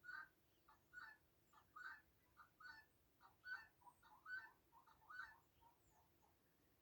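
Domestic fowl, turkeys or guinea fowl, giving a faint series of short repeated calls, about one to two a second, that thin out near the end.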